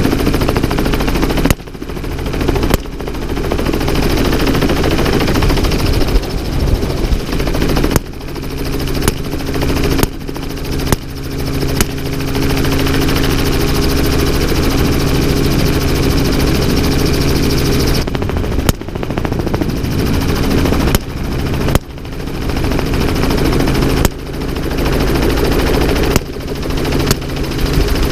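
Helicopter running steadily with about a dozen gunshots fired at irregular intervals, several in quick pairs. After each shot the helicopter sound briefly drops and then comes back.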